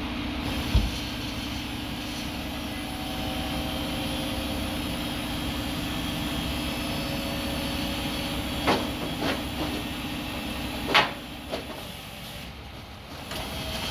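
Par Kan EZ Dump pickup truck running with a steady drone. A knock comes near the start, then several clanks and a sharp bang about eleven seconds in, after which the drone cuts out.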